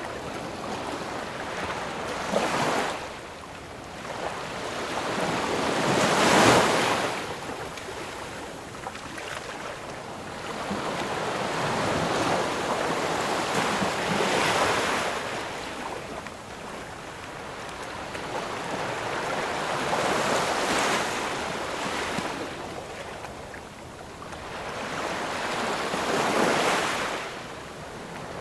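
Sea surf: waves breaking and washing in, one after another, each a rush of water that swells and fades over a few seconds, the loudest about six seconds in.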